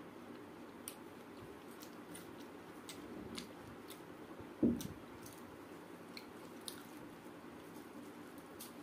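Close-up eating sounds: a person chewing, with scattered small wet clicks from the mouth and fingers working the rice. A single dull thump about halfway through is the loudest sound.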